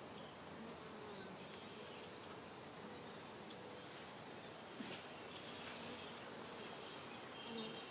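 Honeybees buzzing steadily around an open hive as a frame is lifted out for inspection, with one light click about five seconds in.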